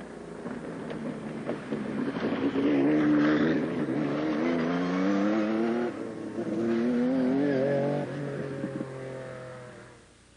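Porsche 956 racing car's twin-turbo flat-six engine accelerating hard, its pitch climbing, dropping at an upshift about six seconds in, then climbing again. It fades away near the end.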